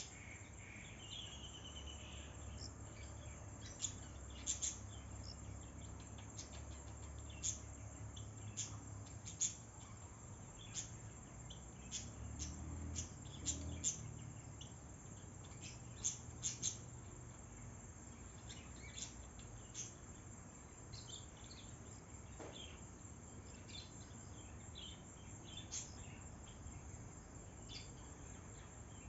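Outdoor ambience with many short, high bird chirps scattered irregularly over a steady low rumble.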